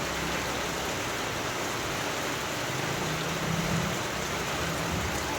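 Steady rain falling, an even hiss, with a faint low hum swelling briefly about three seconds in.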